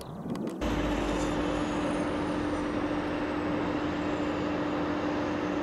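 Jet airliner engines running, cutting in sharply about half a second in: a steady rush of noise with a steady low hum and a faint high whine that slowly falls.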